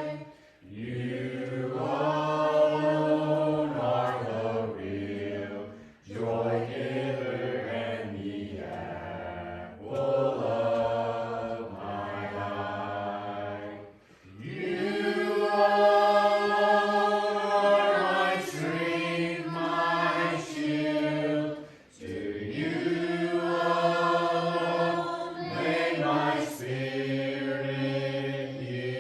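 Church congregation singing a hymn a cappella in several voices, in long sustained phrases with short breaks for breath between them.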